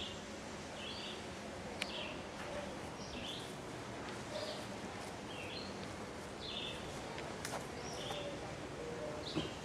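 A songbird outdoors calling over and over, a short high chirp about once a second, over a faint steady outdoor hiss with a few light clicks.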